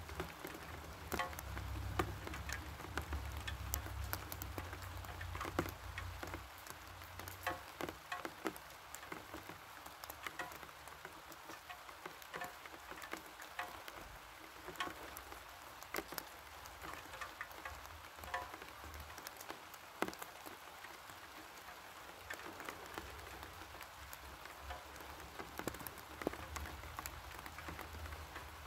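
Steady rain falling, with many irregular individual drops and drips ticking sharply through the hiss. A low rumble comes and goes underneath, in the first few seconds and again near the end.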